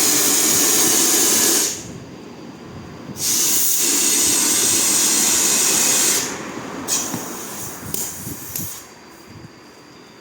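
Compressed air hissing in two long, loud blasts that start and stop sharply, the second ending about six seconds in, followed by a few light clicks and knocks.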